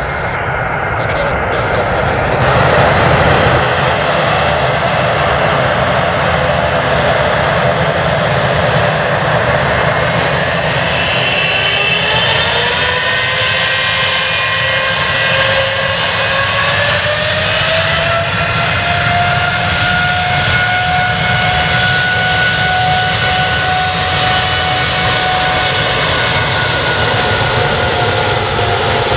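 Jet airliner engines running with a steady roar. About a third of the way in, a whine rises in pitch and then holds steady: the engines spooling up to takeoff power for a departure.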